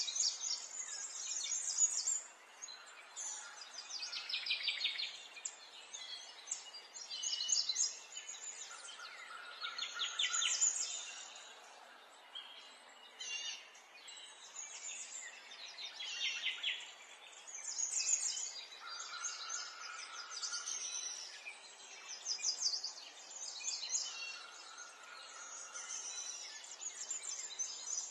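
Birds singing: repeated rapid, high chirping trills, some sweeping down in pitch, coming every few seconds over a faint steady hiss.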